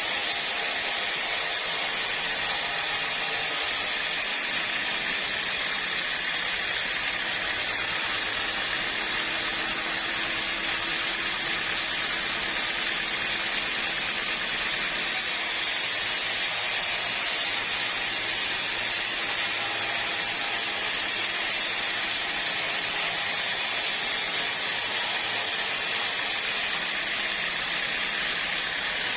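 Sawmill machinery running with a steady, even hissing noise that does not change.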